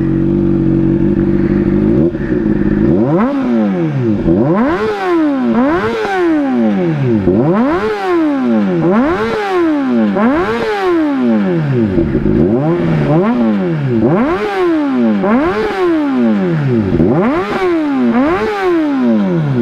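A 2011 Honda CBR600RR's inline-four engine, warmed up, idles steadily through an exhaust fitted after the catalytic converter. About three seconds in it starts revving, blipped up and dropped back about a dozen times at roughly one rev every second and a half, then returns to idle at the end.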